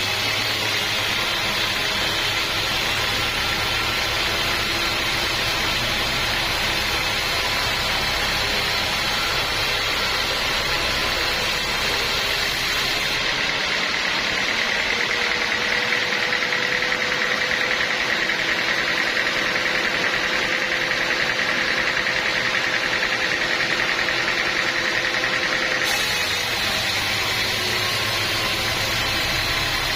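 Portable sawmill running steadily, engine and saw together. The sound changes abruptly about 13 seconds in, with less low rumble and a steadier high whine, and switches back about 26 seconds in.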